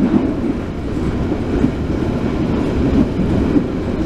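Steady running noise of a moving passenger train, heard from inside the carriage: wheels on rails and the coach's body noise at speed.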